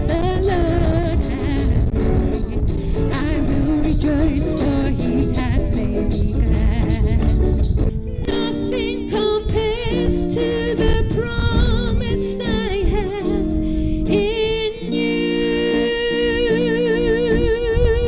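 Worship song: a singer with strong vibrato over instrumental accompaniment, holding long notes in the second half. A low wind rumble on the microphone runs underneath.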